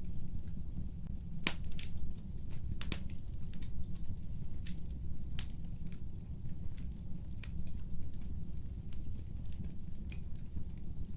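Fireplace fire crackling, with irregular sharp pops over a steady low rumble; the loudest pops come about one and a half and three seconds in.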